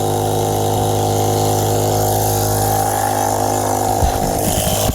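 Small 12-volt cigarette-lighter air compressor, powered by an RC battery, running steadily with an even motor-and-piston hum just after being switched on. A few short knocks come near the end.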